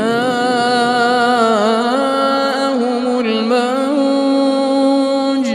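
A male Qur'an reciter's voice holding one long melodic note in tajweed style, the pitch bending through ornamented turns before it breaks off near the end.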